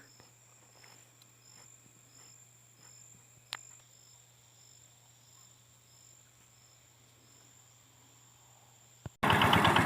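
Crickets or other insects chirping, a steady high drone with a short chirp about twice a second. Near the end the sound cuts abruptly to a small micro tractor engine running with a rapid, even beat.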